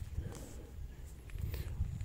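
Faint, distant birds chirping a few times over a low rumble of wind on the microphone.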